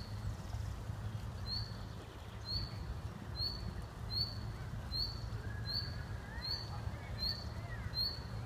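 A bird repeating a short, high, upward chirp about once a second, over a low steady rumble.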